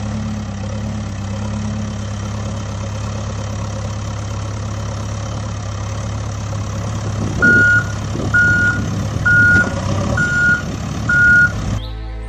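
A vehicle engine running steadily, joined in the second half by five short, high reversing beeps about a second apart.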